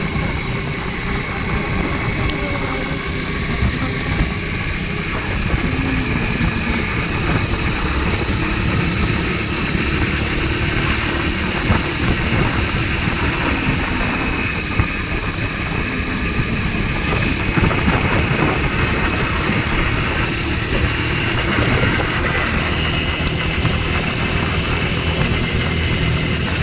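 Motorcycle engine running steadily while riding along, with a continuous low rumble and faint engine tones that drift slowly in pitch.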